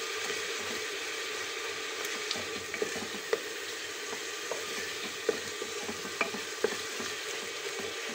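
Onion and ginger-garlic paste sizzling in hot mustard oil in an aluminium pressure cooker, stirred with a wooden spatula. A steady frying hiss, with scattered light knocks and scrapes of the spatula against the pot.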